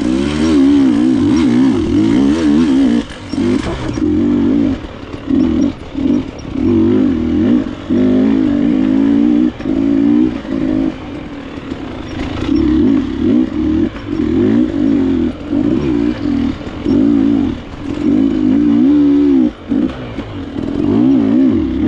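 Enduro dirt bike engine, likely a KTM, revving up and down as it is ridden off-road. The throttle opens and closes every second or two, with short drops in between.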